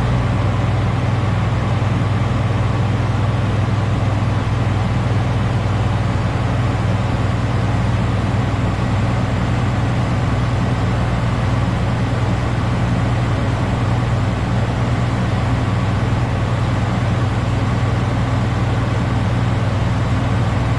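Diesel engine of a coal-hauling semi tractor held at a steady raised idle, with the throttle pressed lightly to run the air compressor and build air pressure. The pitch steps up slightly at the start and then holds level.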